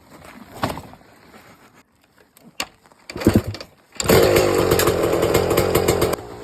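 TM Racing 300cc two-stroke dirt bike engine starting: a short sputter about three seconds in, then it fires about four seconds in and runs loud and high-revving for about two seconds before dropping back to a quieter idle near the end. Light clicks and knocks before it starts.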